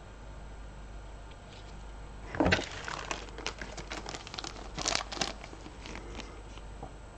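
Crinkling and crackling of a plastic bag or wrapper being handled, a burst of about three seconds starting about two and a half seconds in, loudest at its onset and again near its end.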